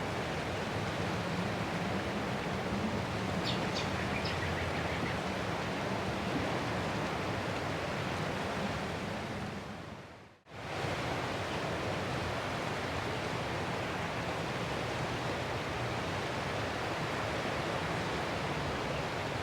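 Ocean surf washing on a shore as a steady, even rush of noise. It briefly fades out almost to silence and swells straight back about ten seconds in, with a few faint high chirps a few seconds in.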